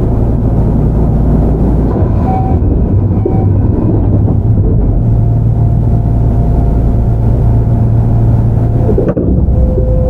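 Kintetsu 5800 series electric commuter train with a Mitsubishi GTO VVVF inverter, heard on board while running: a loud, steady low rumble of motors and wheels on the rails, with faint steady tones that come and go and a single knock about nine seconds in.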